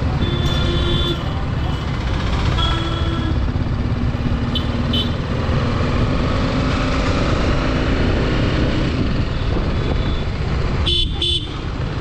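Road noise and wind rumble on a moving motorcycle, with a vehicle horn honking briefly about half a second in and again around three seconds in, and two short honks near the end.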